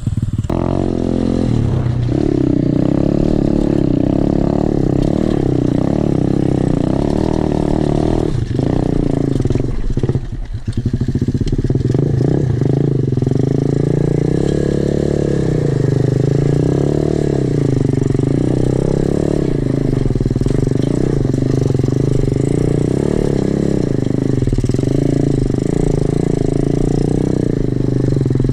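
Pit bike's single-cylinder four-stroke engine running while being ridden, its pitch rising and falling with the throttle, with a brief let-off about ten seconds in.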